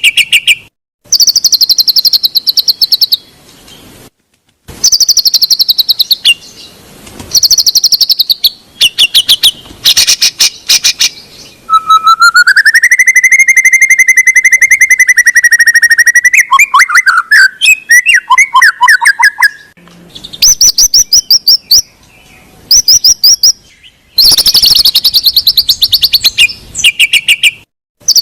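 White-rumped shama (murai batu) song used as a lure to prompt a silent bird to sing: loud bursts of rapid, high trills and chattering phrases, cut by abrupt short gaps. In the middle comes one long wavering whistle, followed by lower choppy notes.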